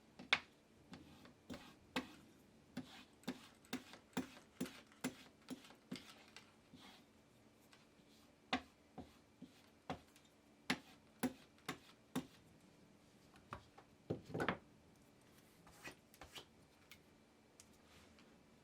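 Leatherworking hand tools at a workbench: a series of sharp ticks and taps, about two a second for a few seconds, then irregular. About fourteen seconds in there is one longer, louder rubbing sound.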